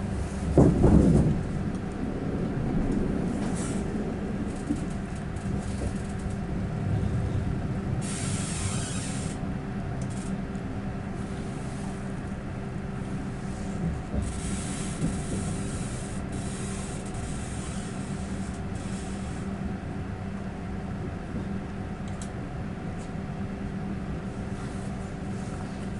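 Inside a passenger train running between stations: a steady low rumble with an even hum from the train's drive, a loud knock about a second in, and bursts of hissing around eight and fifteen seconds.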